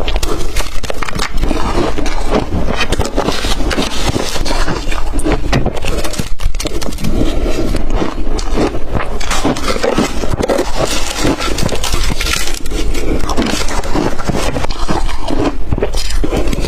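Close-miked crunching and chewing of blender-crushed ice, a dense run of sharp cracks and crackles with no pauses.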